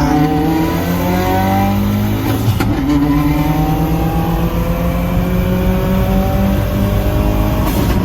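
Car engine accelerating hard, its pitch climbing steadily; about two and a half seconds in it drops at a gear change, then climbs again through the next gear.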